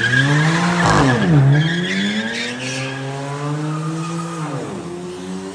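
Car engine revving as it accelerates: its pitch climbs, drops sharply about a second in and climbs again, then falls back near the end. High tyre squeal sounds in the first half.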